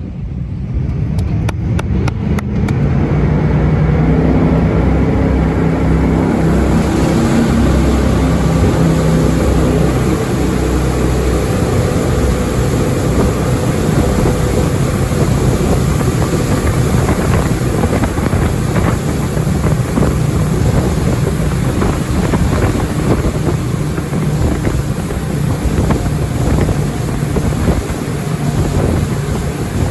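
Jet boat engine opening up and running hard, with the rush of wind and water over it as the boat gets up to speed. The sound builds over the first few seconds and then holds steady.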